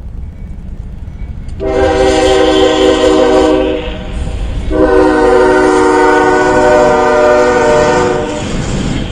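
Train locomotive horn sounding two long blasts, the second longer than the first, over the steady low rumble of the moving train.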